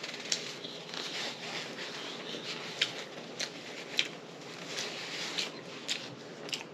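Close-miked chewing of chicken: a soft wet mouth noise broken by sharp, irregular mouth clicks and lip smacks, roughly one or two a second.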